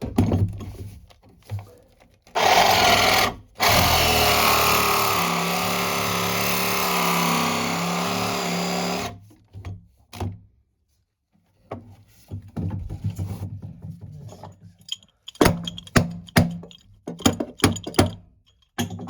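Battery-powered saw cutting through a pipe, running steadily for about seven seconds with a brief stop about a second after it starts, then scattered knocks and clatter as the pipe and fixtures are worked loose.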